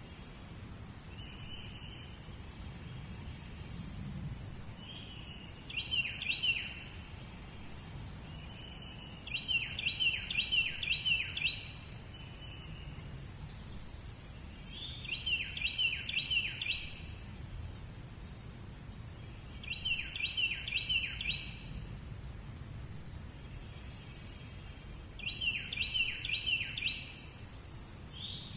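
A bird-like call repeated five times, about every five seconds: a run of four or five quick, sharp high notes, several times led in by a rising whistle. A steady low rumble runs underneath.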